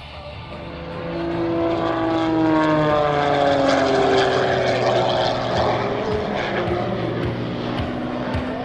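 The MXS-RH aerobatic plane's 360-horsepower piston engine and propeller. The note swells, loudest about three to four seconds in, and falls steadily in pitch.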